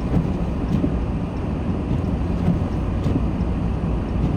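Steady low rumble of a car driving, heard from inside the cabin: engine and tyres on a snow-covered road.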